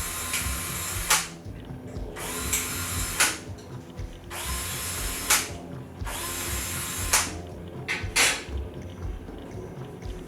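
Handheld power drill run in short bursts of about a second each, four times at roughly two-second intervals, each cut off sharply, then a brief fifth burst near the end.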